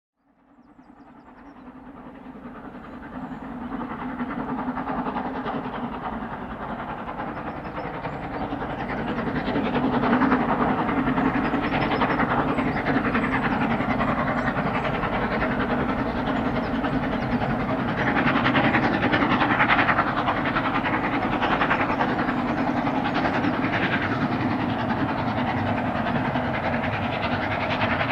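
Steam locomotive 46100 Royal Scot, an LMS Royal Scot class 4-6-0, working a train. The sound fades in over the first few seconds and then holds steady and loud.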